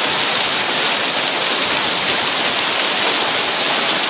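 Hailstorm: hail and rain coming down hard in a steady, dense hiss.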